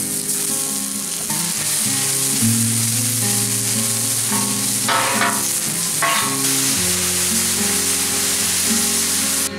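Sliced onions and green bell peppers sizzling steadily on a hot Blackstone flat-top griddle, with brief scraping or stirring noises about five and six seconds in, under background music.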